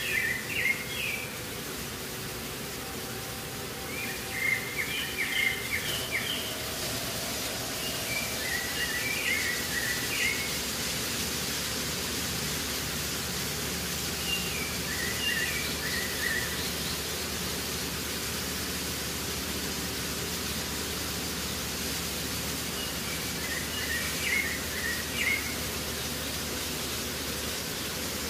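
A songbird repeating a short chirpy phrase every few seconds over a steady background hiss. A faint high, even hum joins a few seconds in.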